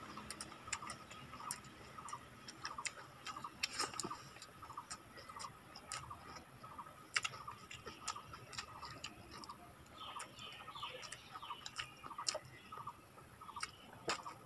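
Close-up mouth sounds of people eating rice, chicken and boiled egg by hand: chewing and lip smacking heard as a string of small, irregular clicks.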